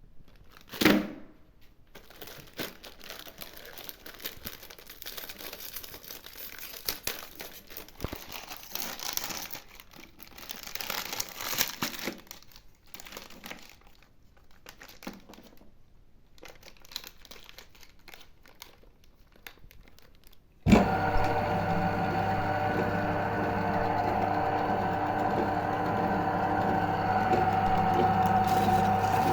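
Quiet crinkling and rustling of handled packaging, with one sharp knock about a second in. About 21 s in, an electric meat grinder's motor switches on suddenly and runs with a steady hum.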